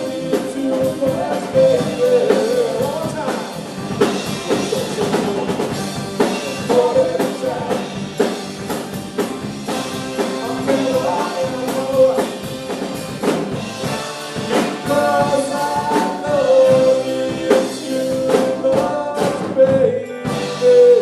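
A live rock band plays with a singer and drum kit. Long sung notes are held over steady drum hits.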